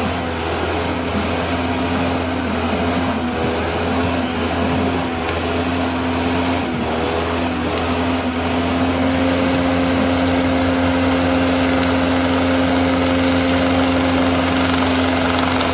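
Car engine held at steady high revs during a burnout, with the rear tyres spinning against the pavement.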